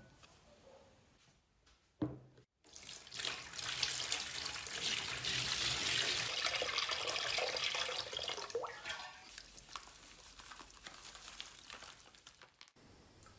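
Water running steadily for about ten seconds, swelling and then tapering off before it stops, after a single knock about two seconds in.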